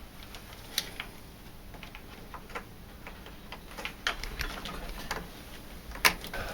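Light, irregular clicks and ticks of small plastic and metal parts of a tumble dryer's pump and hose fittings being handled, with a sharper click about six seconds in.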